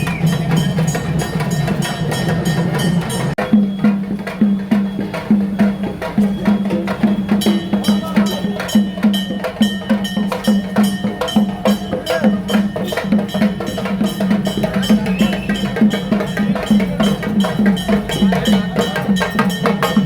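Ritual procession drumming: drums and percussion beaten in a steady, fast rhythm of about three strokes a second, settling into this beat about three seconds in.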